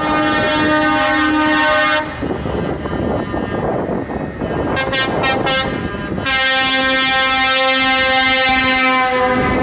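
Truck air horns sounding as trucks drive past: one long steady horn chord for about two seconds, then engine and traffic noise with a few short toots, then a second long horn blast from about six to nine seconds in.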